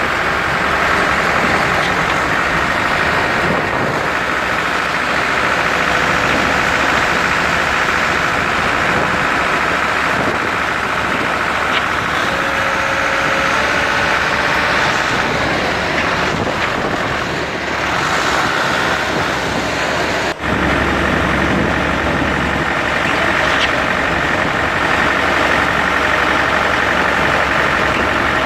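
A steady engine running at an even speed, with a brief dropout about twenty seconds in.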